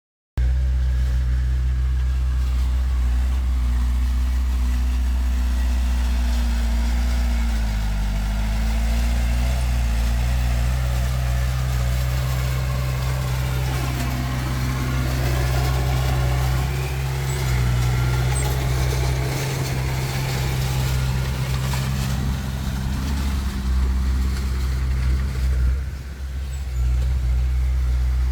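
Heavy diesel earthmoving equipment engine running steadily with a deep note. The engine speed changes a few times as the machine works: a brief dip after several seconds, then rising load about halfway through.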